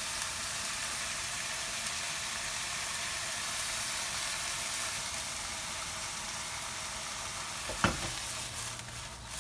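Minced meat and diced vegetables sizzling steadily in a hot frying pan as soy sauce is poured along the pan's edge and the mix is stirred with a wooden spatula. A single sharp knock of the spatula against the pan comes near the end.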